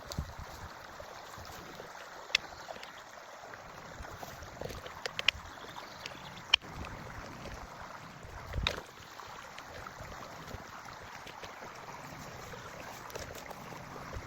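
A forest creek flowing steadily. A few sharp clicks and knocks are scattered through it, the loudest a little past the middle, and there is one dull thump about two-thirds of the way in.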